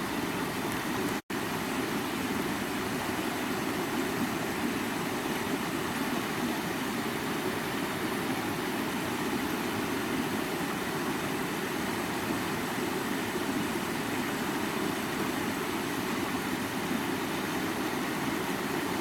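Steady rushing of water in a running brook, an even sound with no let-up, broken only by a split-second dropout about a second in.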